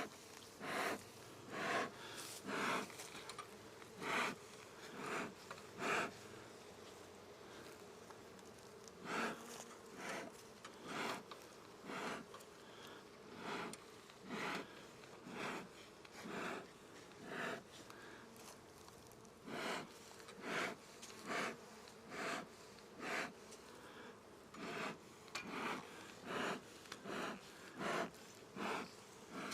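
Bellows of a beekeeper's smoker being squeezed, puffing out short whooshes of smoke about once a second in runs with short pauses, over the steady hum of honeybees at an open hive.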